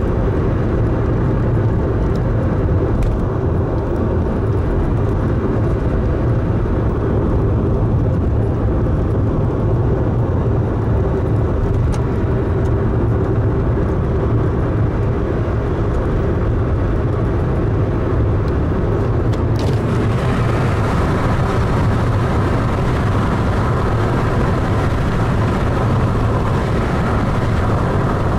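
Steady road and engine noise from inside a moving car. About two-thirds of the way through, a click is followed by a brighter, hissier rush.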